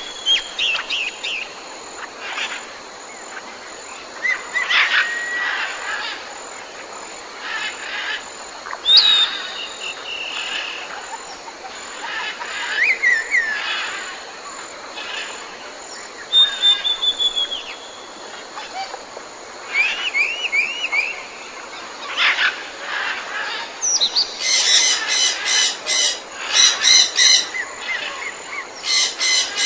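Several wild birds calling and singing in a mix of short chirps and whistled notes, some sliding in pitch, over a steady background hiss of natural ambience. In the last few seconds the calls become rapid runs of high repeated notes.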